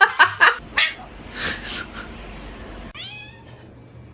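A few quick, loud knocks or clatters in the first second, then a short hissing noise. About three seconds in, a cat meows once, a short call falling in pitch.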